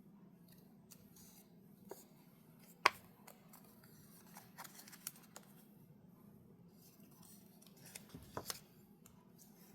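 Cardstock being handled and folded at a craft table: faint rustling with scattered light clicks and taps, one sharp click about three seconds in and a few more near the end.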